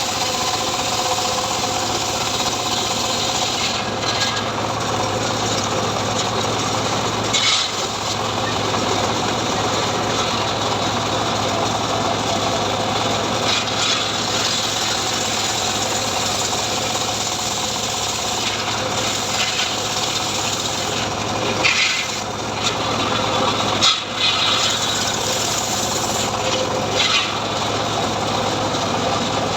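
Homemade assembled chainsaw running steadily as it saws through sengon wood, with a few brief louder scrapes and knocks.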